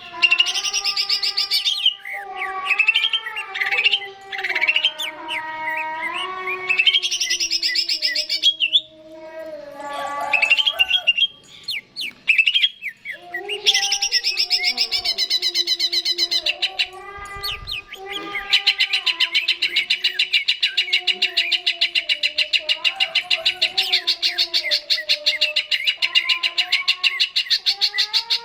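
Green leafbird (cucak ijo) singing: varied whistled phrases and chattering trills, changing about two-thirds of the way through to a fast, even trill that carries on.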